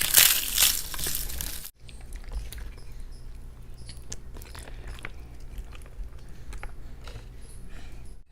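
Biting into and chewing crunchy fried food close to the microphone: a loud crackling crunch that cuts off suddenly after about a second and a half. Then quieter chewing with small mouth clicks.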